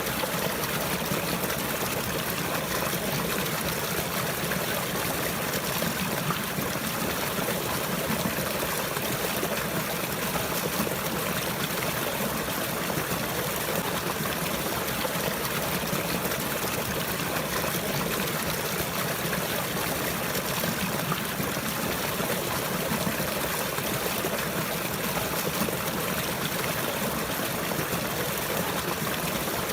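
Running water trickling and flowing steadily, an even, unbroken wash of water sound.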